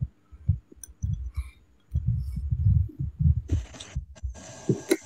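Close-miked eating sounds from a phone microphone: irregular low, muffled thumps of chewing, with a couple of short hissy mouth or breath noises near the end.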